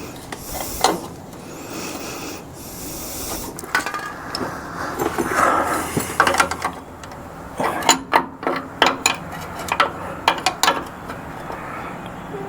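Hammer striking the bent steel front frame of a 1966 Ford Ranchero as it is straightened: scattered sharp metallic knocks, then a quick run of about eight blows two-thirds of the way in, with scraping and rubbing between.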